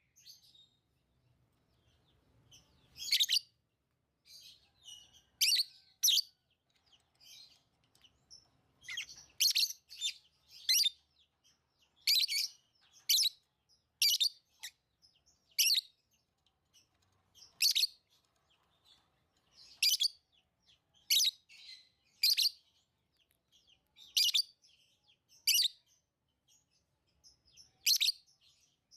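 Lovebirds chirping: short, shrill calls repeated at irregular intervals, about one every second or two.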